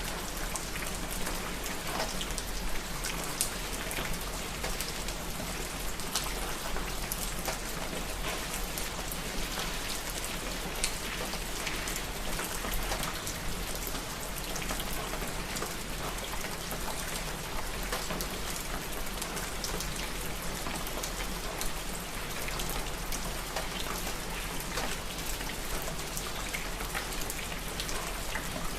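Steady rain falling on a surface, with many distinct drop hits over a constant hiss.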